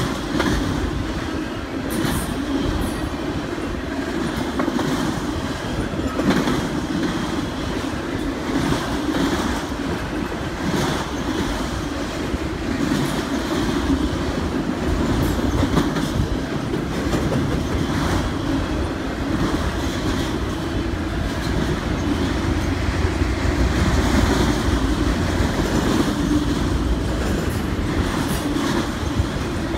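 Freight train of autorack cars rolling steadily past: a continuous rumble of steel wheels on the rails, with wheel clicks about once or twice a second.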